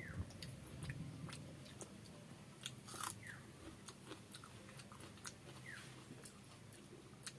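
A person chewing food close to the microphone, with many small wet mouth clicks and lip smacks at irregular intervals.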